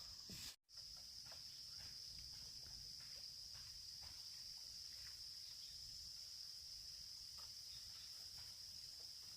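Steady high-pitched drone of insects, with faint scattered ticks. The sound cuts out for a moment about half a second in.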